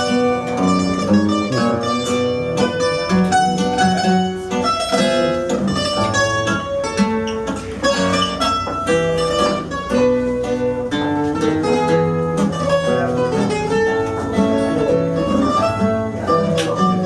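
Fado instrumental introduction: a Portuguese guitar picks a quick, bright melody of plucked notes over the chords of a viola de fado (classical guitar), with no voice yet.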